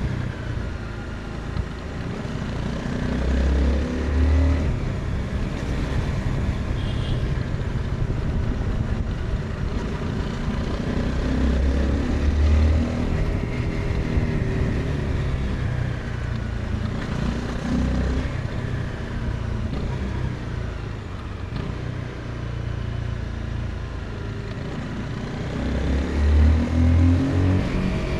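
Honda CBR 250R's single-cylinder engine and exhaust under way, the revs repeatedly rising and falling with throttle and gear changes. There are several stronger pulls, the loudest near the end.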